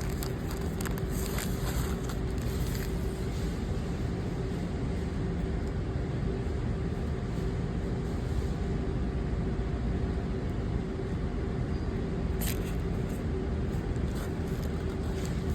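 Steady road and engine rumble inside a moving car, with a faint steady hum. A single sharp click comes late on.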